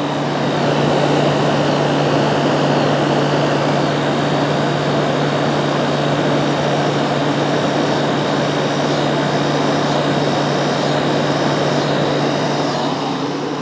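Fedders A3R06F2B 5800 BTU window air conditioner running: its fan blowing air steadily over a constant low hum from the rotary compressor, getting slightly louder about half a second in and easing off near the end.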